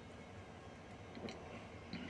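Quiet background with a faint steady low hum and a few light clicks, about a second in and again near the end.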